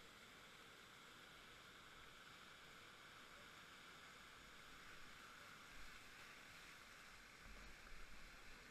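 Faint, steady rush of river water, with a few low bumps near the end.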